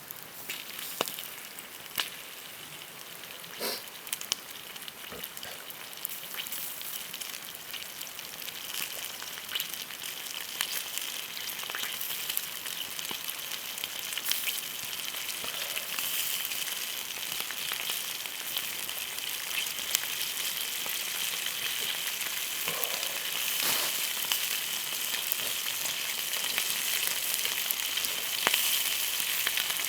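Food frying in a pan over a campfire: a steady sizzle with scattered pops and crackles, slowly growing louder as the pan heats.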